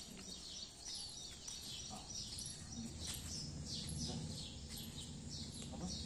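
Birds chirping: a quick, continuous run of short high chirps over a steady low background hum.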